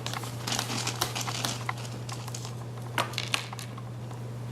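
Scattered light taps and clicks as a baby handles puff snacks, the clearest about three seconds in, over a steady low hum.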